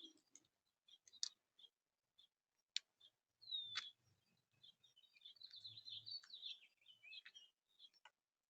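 Small songbirds calling faintly: short high chirps about twice a second, a down-slurred whistle about three and a half seconds in, then a jumbled warbling song for about three seconds. A few sharp clicks fall among the calls.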